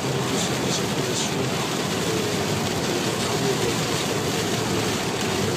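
Steady road noise of a car driving on a motorway in a heavy thunderstorm: tyres on the rain-soaked road and rain on the car, an even rushing noise at a constant level.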